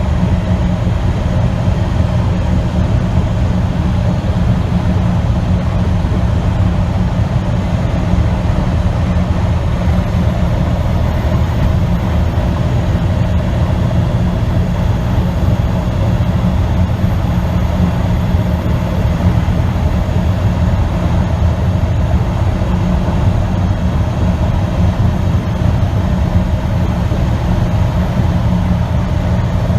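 Tractor-trailer driving at a steady speed: a constant low engine drone mixed with road noise.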